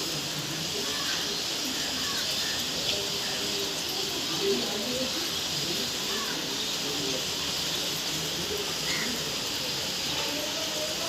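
Steady rainfall, an even hiss with no break, with a few faint short chirps over it.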